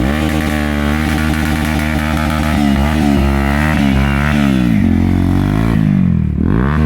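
A vehicle engine running steadily under way, its pitch wavering, then dropping about six seconds in and climbing again.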